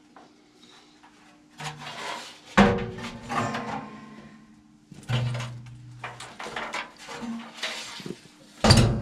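Metal parts knocking and clattering as a furnace blower motor and its mount bracket are handled, with a few sharp knocks, the loudest about two and a half seconds in and near the end.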